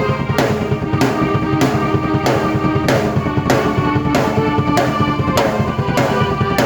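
Drum kit and keyboard playing together in an upbeat piece, the drums landing regular strong hits under held keyboard notes.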